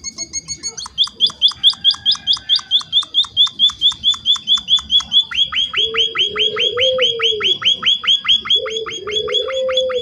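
Emprit (munia) calling in a fast, steady string of short sweeping chirps, about five a second, used as a lure call to set other emprit calling back. A lower wavering sound joins twice in the second half.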